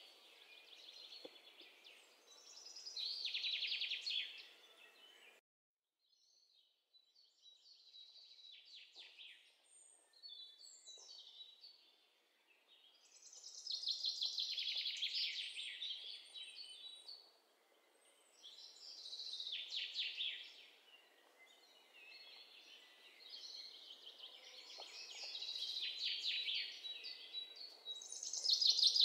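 Small birds chirping and trilling in repeated high-pitched bursts a couple of seconds long, over a faint hiss.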